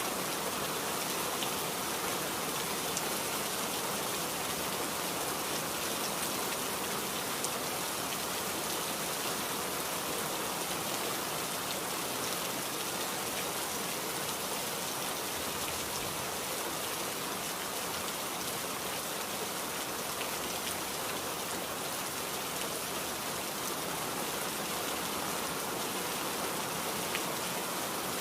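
Steady rainfall, a dense even hiss of drops pattering on surfaces, with faint scattered individual drop ticks.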